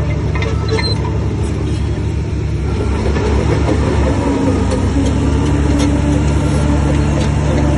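Shantui bulldozer's diesel engine running steadily, getting louder and heavier about four seconds in, with occasional light metallic clanks.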